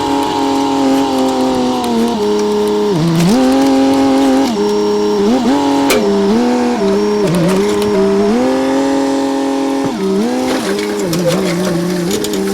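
John Deere skid steer's diesel engine running at high revs, its pitch dipping and recovering about six times as it bogs under load while pushing and lifting material.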